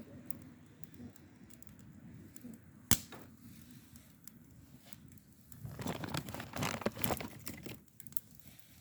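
Crinkling and rustling handling sounds, with one sharp click about three seconds in and a denser spell of crinkling in the second half.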